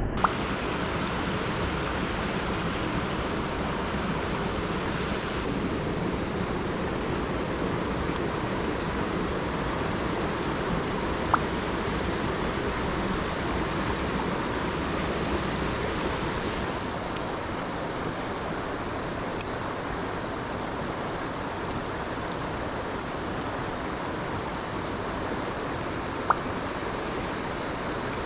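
Mountain stream water running steadily, an even rushing noise, with three single sharp clicks spread through it. The texture changes abruptly twice, a few seconds in and again past the halfway mark.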